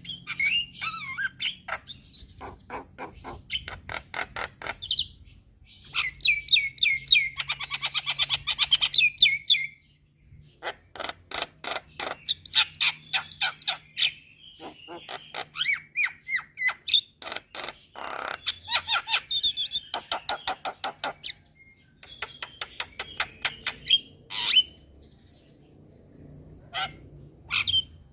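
Mynas calling and chattering: rapid runs of sharp, harsh notes, one run after another with short breaks about ten seconds in and again past twenty seconds.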